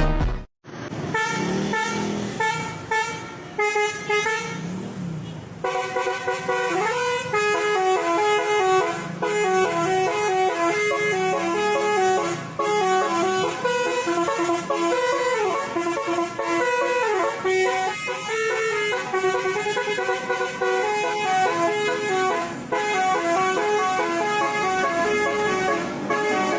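Truck horns honking in quick stepping pitches like a tune, with short breaks between phrases.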